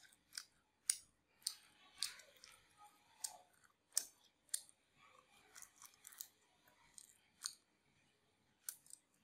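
Close-up chewing of bánh tráng trộn, a Vietnamese rice-paper salad, with a string of sharp, crisp crunches and clicks about every half second to second.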